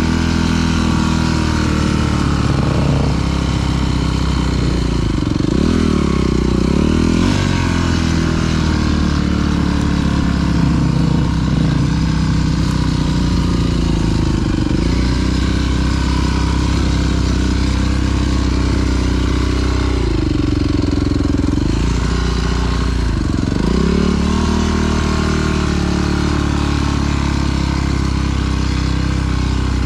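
Dirt bike engine running under way, its revs rising and falling repeatedly with throttle changes as it is ridden along trails.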